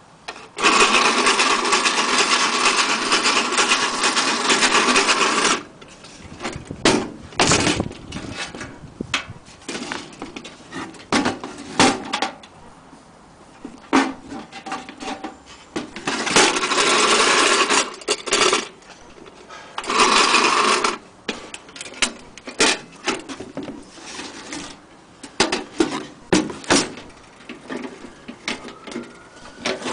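Toy washing machine's small electric motor running in three short spells, the first about five seconds long and the others briefer, switched on and off. Between the spells come scattered clicks and knocks as the plastic machine is handled.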